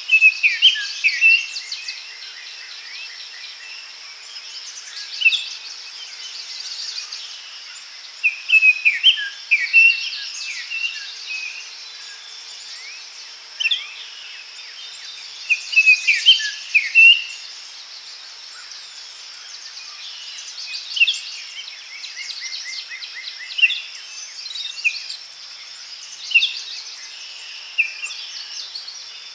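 Forest daytime ambience: several birds calling and singing in short bursts of sharp, falling notes every few seconds over a steady high hiss of insects.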